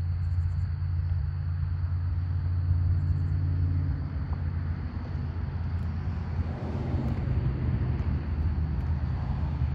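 Low steady rumble of a motor vehicle engine running nearby.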